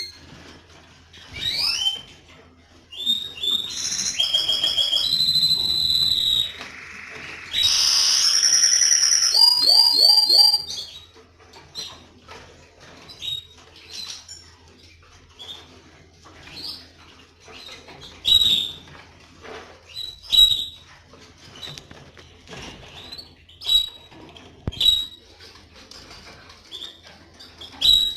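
Domestic canaries singing: a loud run of rapid trills and rolls lasts from about three seconds in to about ten seconds, then short scattered chirps and call notes follow.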